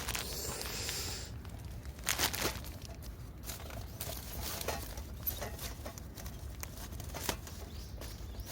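Irregular crackles and rustles, a scatter of sharp clicks over a steady low rumble.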